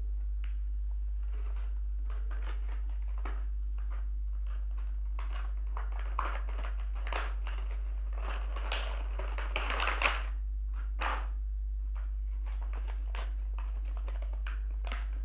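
Hands taking a toy quadcopter's controller out of its box and handling it and the packaging: scattered light clicks and rustles, thickest in the middle with a longer rustle about ten seconds in, over a steady low hum.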